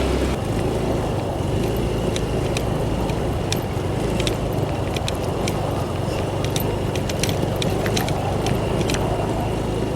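Motorcycle engine running steadily while riding along a rough forest track, with scattered sharp clicks and rattles throughout.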